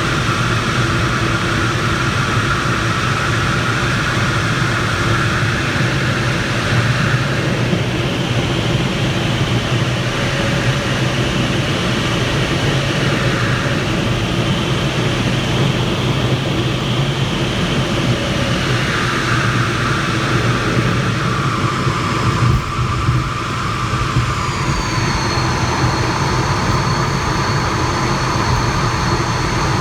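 Inside the cockpit of a Mirage 2000B landing: the steady rush of the jet engine and airflow. A sudden jolt comes about 22 seconds in, fitting the wheels touching down. Soon after, a high whine falls and then holds steady.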